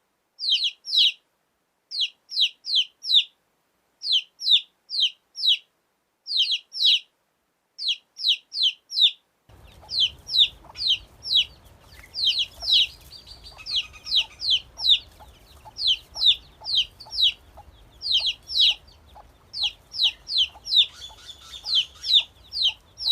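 Baby chicks peeping: short, loud, falling chirps in quick runs of three or four, about four a second. About nine seconds in a low background noise comes in and the peeping grows more continuous, with more chirps overlapping.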